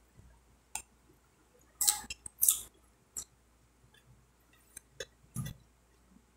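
Close-up chewing of a mouthful of watercress, pork and rice: a scatter of short, crisp wet mouth clicks and smacks, the loudest pair about two seconds in.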